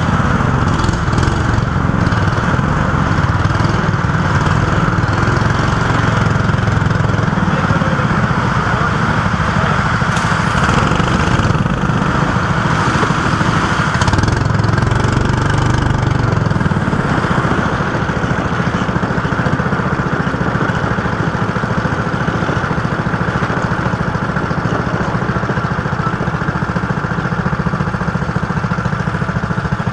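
Go-kart engine running steadily at a near-constant speed, with no clear revving up or down.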